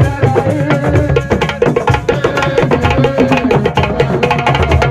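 Senegalese assiko music: hand drums play a fast, dense rhythm while a voice sings over it in wavering lines.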